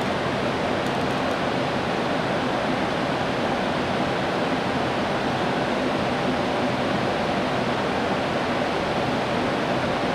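Steady rushing noise on the flight deck of an Airbus A321 in flight, from airflow and the air-conditioning, with a faint low hum underneath.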